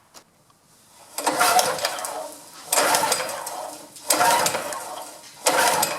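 Honda GX200 small engine being pull-started: four sharp yanks of the recoil starter cord about a second and a half apart, each cranking the engine over without it firing, because it had not been switched on.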